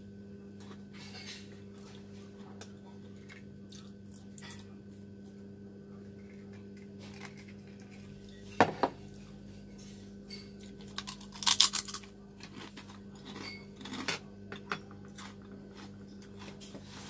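Metal chopsticks clicking and scraping against a small ceramic bowl while eating noodles, with chewing. Sharp clinks come about nine seconds in and in a quick cluster a couple of seconds later, over a steady low hum.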